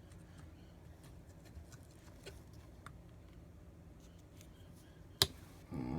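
Small objects being handled on a table: faint scattered ticks and taps, then one sharp click a little after five seconds in.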